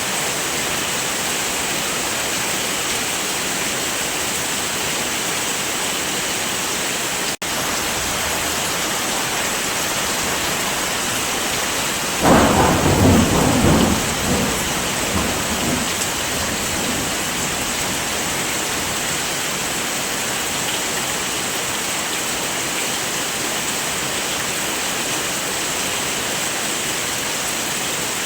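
Heavy rain falling as a steady, even hiss. About twelve seconds in, a clap of thunder breaks in and rumbles away over about four seconds. There is a momentary dropout in the sound a few seconds before it.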